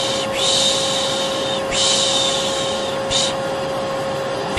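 Vacuum cleaner motor running steadily with a constant hum, while a person shushes over it in long repeated 'shhh' strokes, each about a second long with brief breaths between, the last one short: a white-noise lullaby for settling a baby to sleep.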